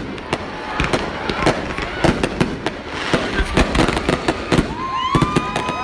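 Fireworks display: a rapid, uneven series of bangs and crackles as aerial shells launch and burst. Near the end, several whistles rise sharply in pitch and then hold.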